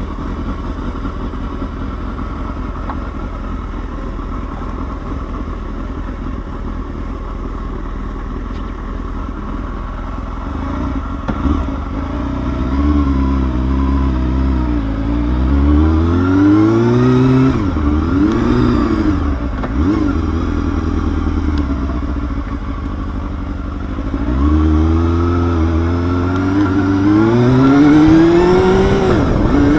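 Honda Hornet 250's inline-four engine running at a steady low speed, then being revved up several times, its pitch climbing, falling back, and climbing again toward the end.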